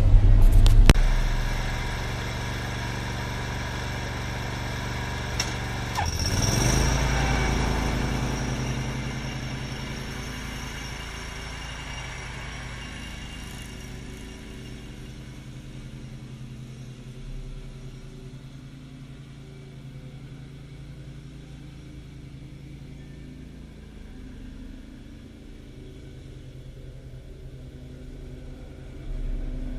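Engine running, rising in pitch about six seconds in as it speeds up, then slowly fading away.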